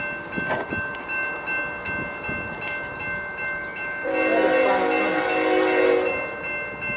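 Diesel locomotive air horn sounding one blast of about two seconds, starting about four seconds in, over a steady high-pitched squeal and the rumble of a passing freight train.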